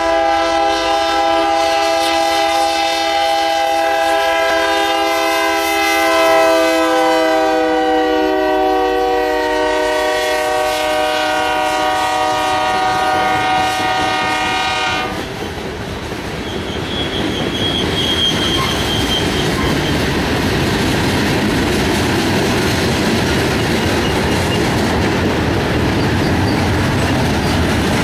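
Freight train locomotive's air horn blowing one long chord that drops slightly in pitch as it passes, then cuts off about halfway through. After that comes the steady rumble and clatter of loaded and empty freight cars rolling over the rails, with a brief faint wheel squeal.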